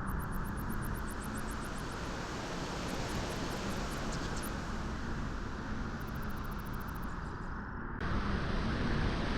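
Steady beach wind, a rushing noise with a heavy low rumble, with faint rapid high ticks now and then. The hiss shifts abruptly about eight seconds in, as at an edit in the recording.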